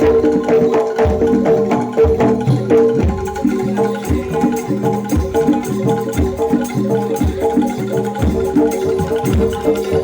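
Javanese gamelan music for a jaranan dor dance: struck metal keyed instruments play a repeating melody over a low drum beat about once a second.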